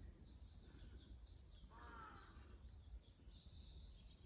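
Faint birdsong: many short, falling chirps from small birds, with one lower, longer call about two seconds in, over a low rumble.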